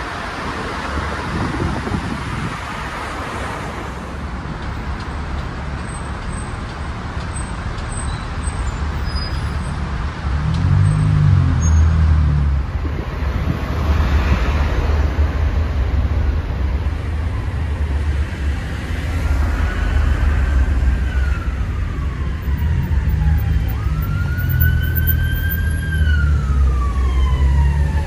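Steady low road and engine rumble heard from inside a moving car, getting louder about a third of the way in. In the second half an emergency vehicle's siren wails, its pitch sliding up and down several times.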